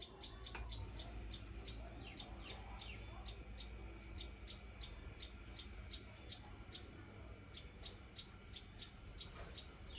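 Common tailorbird calling: a long run of short, sharp, high notes repeated about three times a second, with a few quick falling notes mixed in.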